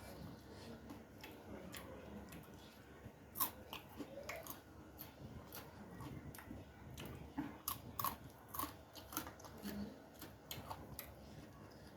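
Close-up chewing and crunching of crisp food, such as papad or raw onion, during a hand-eaten rice meal: sharp, irregular crunches, the loudest about three and a half seconds in.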